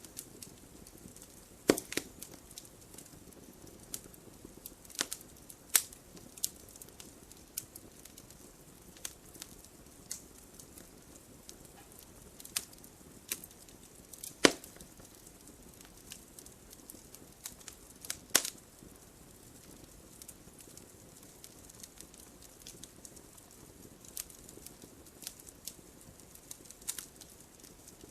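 Wood fire crackling: irregular sharp snaps and pops over a soft, steady hiss, with a few louder snaps scattered through.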